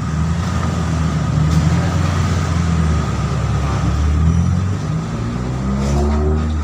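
A motor vehicle engine running with a low, steady sound that climbs in pitch near the end, as when revving or pulling away, then drops off suddenly.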